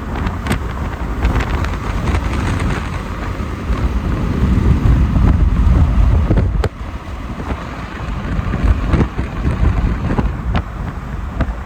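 Storm wind buffeting the microphone: a heavy low rumble that grows louder over a couple of seconds, then drops off suddenly about two-thirds of the way in. A few sharp ticks are scattered through it.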